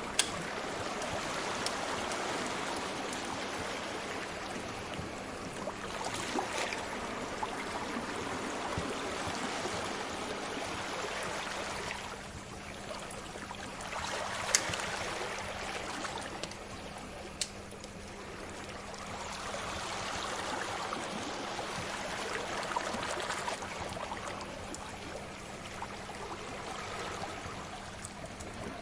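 Sea waves washing in slow swells that rise and fall over several seconds, with the occasional sharp pop of a crackling fire, three of them standing out. A faint steady hum runs underneath.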